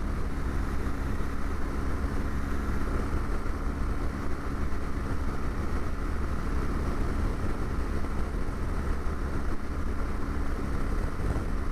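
Motorcycle engine running steadily at cruising speed, an even drone with a constant low rumble.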